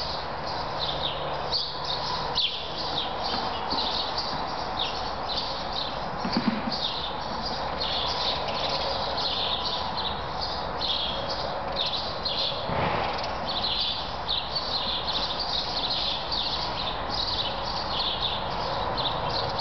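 Small birds chirping steadily, many short high-pitched calls a few per second, over a steady hum.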